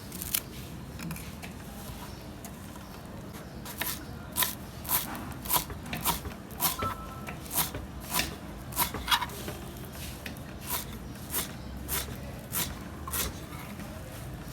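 Rhythmic scraping or knocking strokes of a kitchen utensil, about one every 0.6 seconds, starting about four seconds in and stopping near the end.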